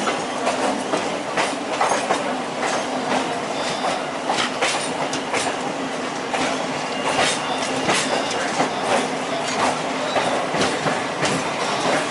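Moving passenger train running at speed: a steady rumble of wheels on rails, with many irregular clicks as the wheels pass over rail joints and points.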